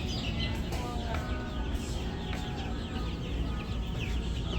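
Many baby chicks peeping together: a busy stream of short, high, falling peeps over a low background rumble.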